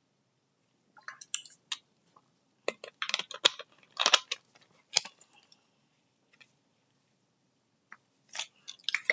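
Small objects being handled close to the microphone: irregular clicks, crackles and rustles in short clusters, with a quiet stretch of a few seconds in the middle.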